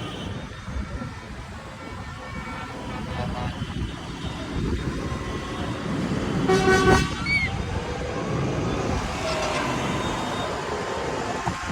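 Tractor engines running as the procession passes, with one short horn toot about six and a half seconds in.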